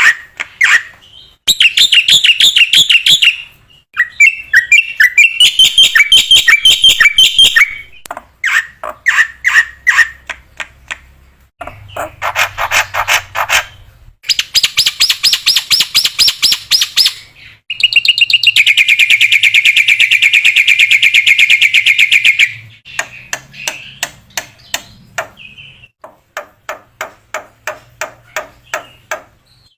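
Black-winged myna singing a loud, varied song: runs of rapid repeated notes and chattering trills, with one long, fast trill held for about four seconds past the middle.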